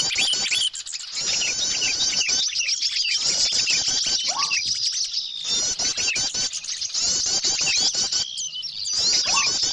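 Bird-lure recording of many small songbirds chirping together in a dense, continuous chorus of rapid high-pitched trills and twitters. A lower note that slides upward comes through every few seconds.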